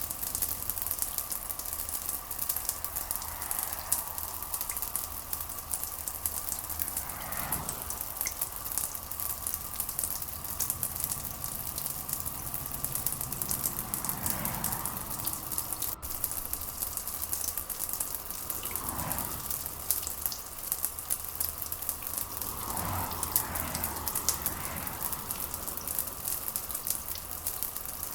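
Steady rain patter, a dense even crackle of drops, over a low steady hum, with a few brief soft swells every few seconds.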